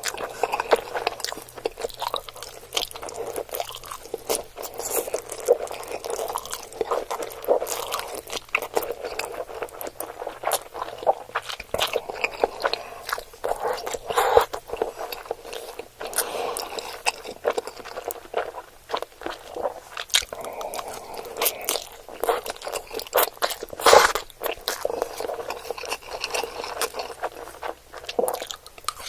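Close-up eating sounds: crunching and chewing in a fast, irregular run of crisp crackles and wet smacks, with a few louder bites along the way.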